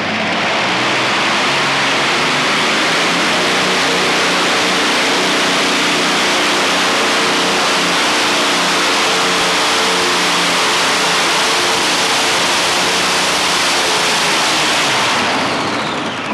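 Engine of a 5,800 lb modified pulling tractor run flat out under load down the track, loud and steady. It falls away near the end as the throttle comes off.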